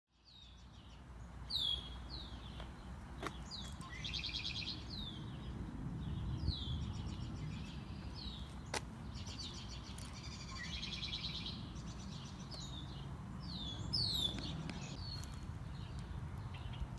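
Wild songbirds chirping and calling: repeated short, high, downward-sliding chirps, twice broken by a rapid trill, over a steady low background rumble.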